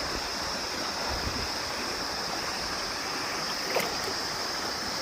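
Steady rushing of a waterfall pouring into its pool, with a short sharp sound a little under four seconds in.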